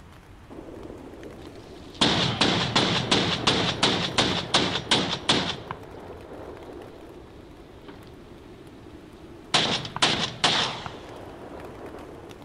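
Gunfire: about a dozen shots in quick succession, roughly three a second, then after a pause a shorter run of four or five shots near the end, over a low steady rumble.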